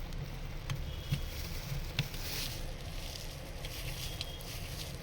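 Screwdriver undoing the screws on a plastic laser-printer drum unit: a few faint clicks and a short scrape over a low steady background.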